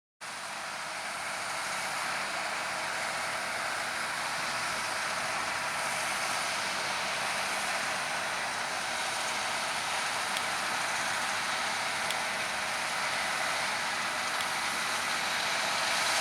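Claas Lexion 670 combine harvester running while combining wheat: a steady, loud mechanical noise that starts abruptly and grows slightly louder near the end.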